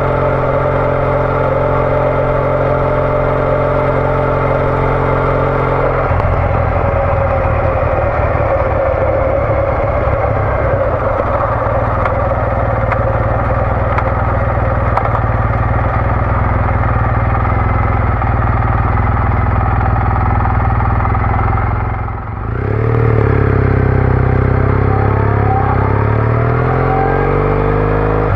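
Triumph Bonneville T214's parallel-twin engine through a TOGA aftermarket exhaust, cruising at a steady speed. About 22 seconds in the engine note dips briefly, then climbs in pitch as the bike accelerates.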